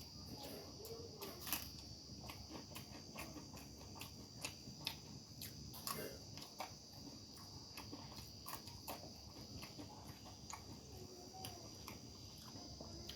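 Eating by hand: irregular soft clicks and smacks of chewing and of fingers on the plate, over a steady faint high-pitched hiss.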